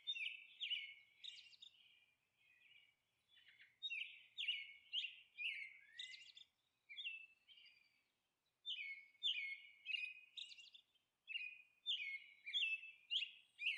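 Birds chirping faintly: quick series of short, falling high chirps, coming in several bursts with brief pauses between them.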